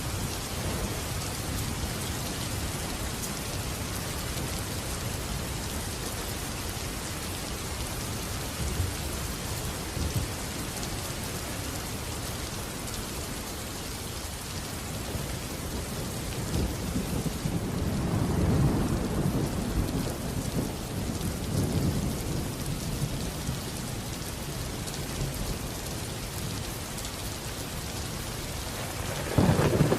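Steady heavy rain with thunder. A low rolling rumble swells about halfway through, and a sudden, louder thunderclap breaks in near the end.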